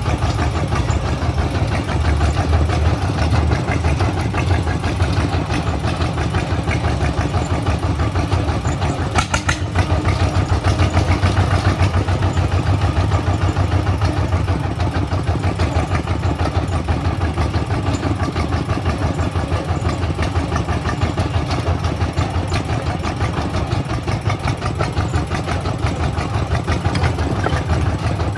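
Kubota single-cylinder horizontal diesel engine, of the kind fitted to Cambodian two-wheel tractors, running steadily at a fast, even idle.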